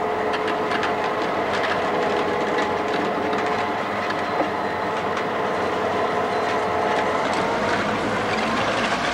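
Diesel switcher shoving a passenger heater car slowly into an engine house: a steady mechanical drone with a few held tones, and scattered light clicks and knocks from the rolling car's wheels.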